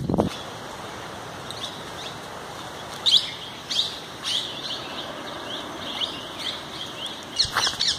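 Small wild birds chirping, short high calls repeated every half second or so, more of them from about three seconds in, with a louder burst of calls near the end.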